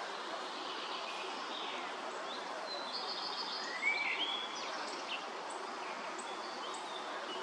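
Creek water running steadily, with several birds chirping in short high notes and little glides, most busily about halfway through.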